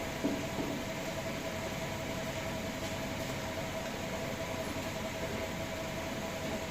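Steady mechanical hum with a constant mid-pitched tone over even noise, with a couple of faint knocks just after the start.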